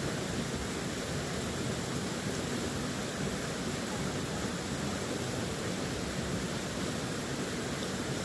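Steady, even rushing noise with no distinct events, like flowing water or wind.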